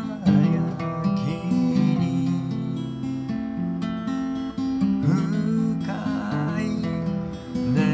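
Acoustic guitar strumming chords, with sharp strokes about a third of a second in, at about five seconds and again near the end.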